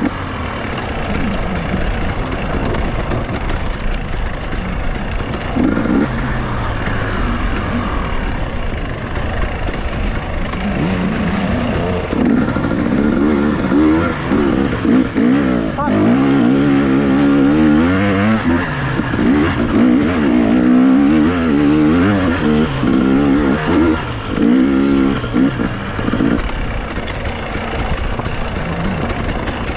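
KTM two-stroke enduro motorcycle engine being ridden off-road, revving up and down again and again under the throttle, with the most frequent rises and falls in the second half.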